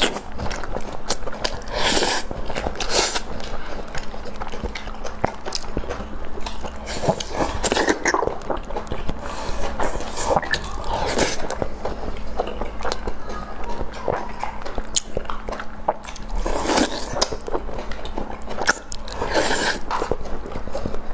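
Close-miked chewing and biting from people eating braised pork and rice with chopsticks: wet mouth sounds and irregular small clicks, over a faint steady hum.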